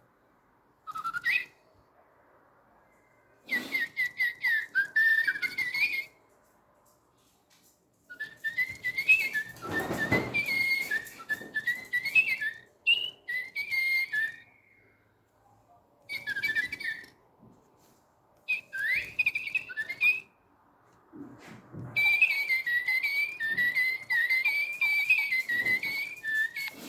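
Little Live Pets electronic toy birds chirping in bouts of quick warbling whistles, each lasting a few seconds with short quiet gaps between. About ten seconds in there is also a low rumble.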